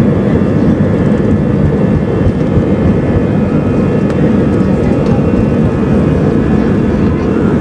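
Steady jet engine noise of an Airbus A320 heard from inside the passenger cabin: a dense even rumble with faint steady whining tones above it.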